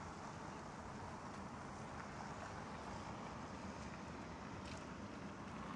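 Steady outdoor city ambience: an even rush of wind and distant noise, with a faint click near the end.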